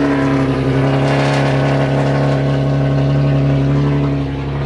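Car engine idling steadily, its low exhaust note holding one pitch.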